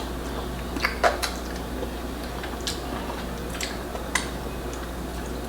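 A few light, scattered clinks of dishes and cutlery, about five short clicks spread over several seconds, over a steady low hum.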